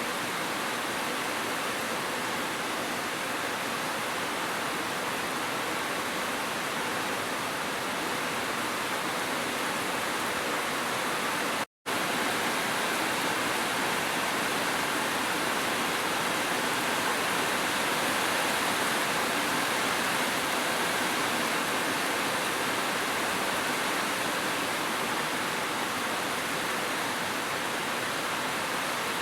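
Steady rushing of a waterfall mixed with gentle rain, an even wash of water noise, with a momentary dropout to silence about twelve seconds in.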